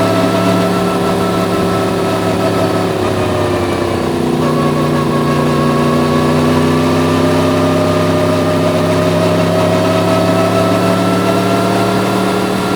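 Yamaha MT-10's crossplane inline-four engine running under way at moderate revs. About four seconds in its pitch drops, then rises slowly through the rest.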